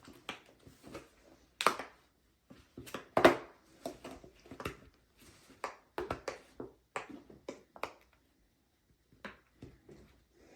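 Silicone Pop-It bubbles being pressed through by fingers, an irregular run of soft snapping pops, two to three a second, a few louder than the rest.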